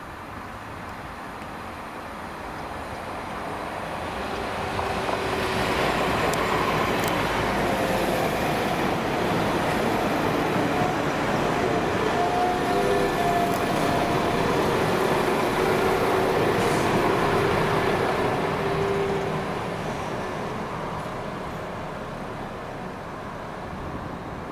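Class 172 diesel multiple unit running past along the platform: its engine and wheels on the rails grow louder over the first few seconds, stay loud for about twelve seconds with a few thin steady whining tones, then fade as it draws away.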